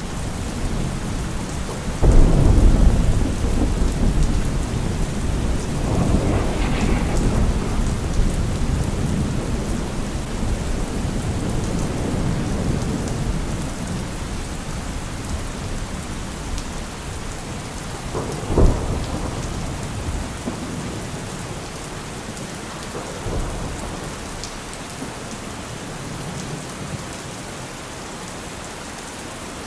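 Steady rain with thunder: a loud low rumble breaks about two seconds in and rolls on for several seconds, a sharper short clap comes about two-thirds of the way through, and the thunder dies away near the end while the rain goes on.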